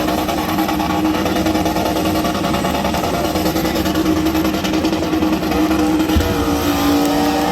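Car engine running hard at a steady held pitch, its pitch shifting about six seconds in.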